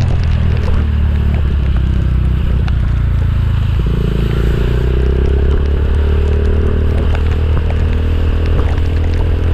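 Motorcycle engine running while riding, with road and wind noise. About four seconds in the engine note changes, and its pitch then creeps slowly upward.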